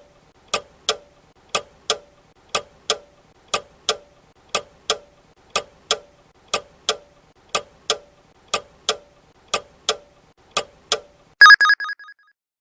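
Clock-ticking countdown timer sound effect, tick-tock in pairs about once a second for roughly eleven seconds, then a brief loud bell-like ring that signals the answer time is up.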